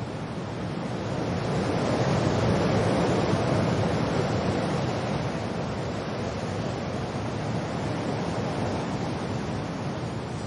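Wind and rain: a steady rushing noise that swells in a gust over the first few seconds, then eases off a little and holds.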